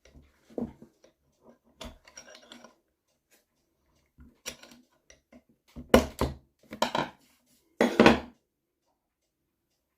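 Metal tools clinking and knocking against the parts of an NSU Quickly two-speed moped engine being taken apart, with three louder knocks about a second apart in the second half.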